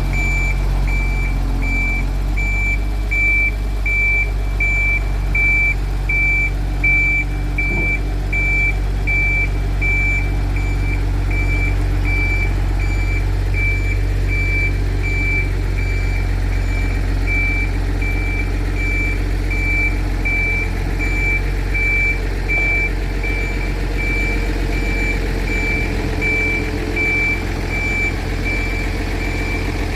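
Reversing or warning beeper sounding steadily, about two high beeps a second, over the low, steady rumble of a vehicle.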